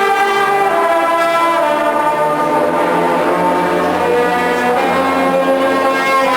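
Marching band brass section playing long held chords that change a few times.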